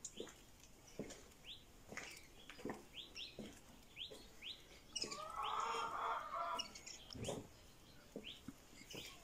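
Birds chirping in short rising chirps, about two a second, over footsteps on a paved lane; about five seconds in a louder, rougher sound lasts for over a second.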